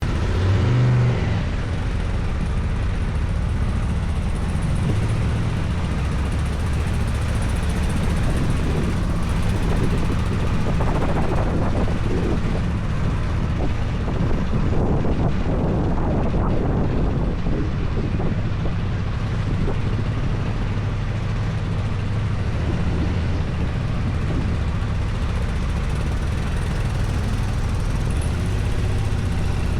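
Enduro motorcycle engine running steadily while riding, with wind rushing over the microphone.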